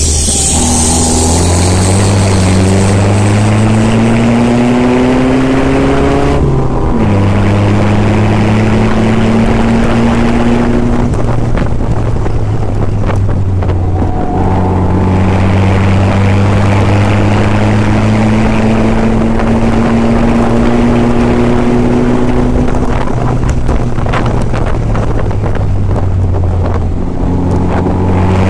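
Austin-Healey 100's four-cylinder engine heard from the open cockpit under racing load: revs climb steadily, drop sharply at a gear change about six seconds in, then climb again. The car lifts off the throttle twice, about eleven seconds in and again after twenty-three seconds, before accelerating once more. Wind buffets the microphone.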